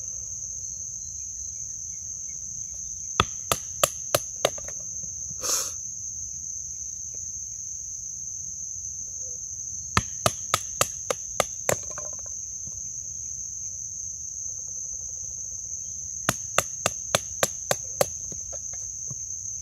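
Three runs of quick, sharp wooden chopping strikes, about three or four a second, from a knife working wood. Under them runs a steady, high trilling of insects.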